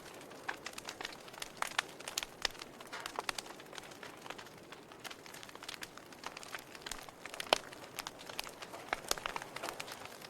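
Wood fire burning in a fireplace, crackling with irregular sharp pops over a soft steady hiss; one louder pop about halfway through.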